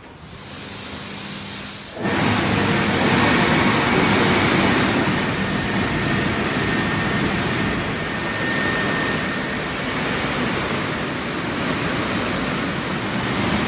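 Aquarama Stargate S9 gantry car wash running: a hiss starts, then about two seconds in a much louder, steady rushing sets in and holds, with a faint high whine.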